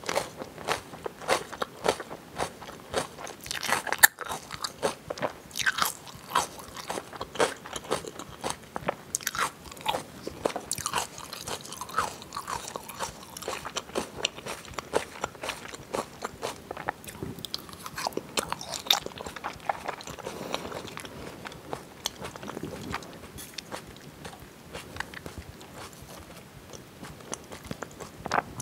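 Close-miked chewing of thick slices of raw salmon sashimi, with many quick, irregular mouth clicks.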